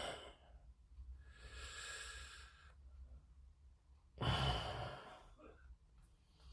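A person breathing close to the microphone: a soft breath in, then a louder sigh out a little over four seconds in.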